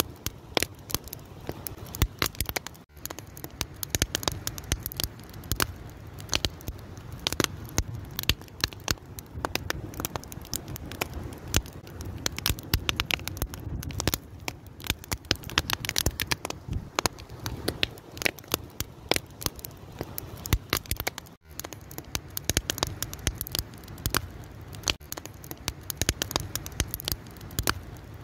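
Wood fire crackling: dense, irregular snaps and pops over a low steady rumble, breaking off for an instant twice.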